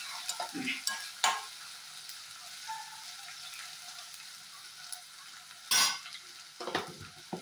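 Onions, chillies and ginger-garlic paste sizzling in hot oil in a non-stick kadai as they are stir-fried, with short scraping strokes of the stirring utensil against the pan; the loudest stroke comes a little under six seconds in.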